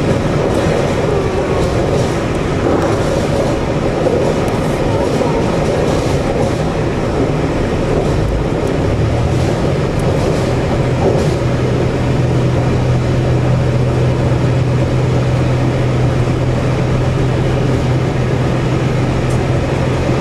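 A train running along the track, heard from inside the carriage: a steady rumble of wheels on rails with light clicks. A low, even hum joins in about nine seconds in.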